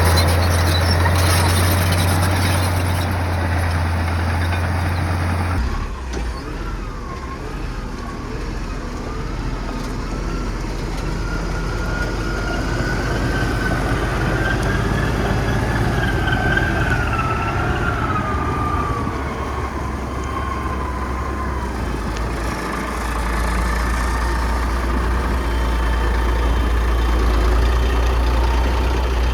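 Komatsu bulldozer's diesel engine running with a heavy low hum. The sound changes abruptly about six seconds in, and a thin wavering whine rises and falls through the middle before the deep engine hum returns near the end.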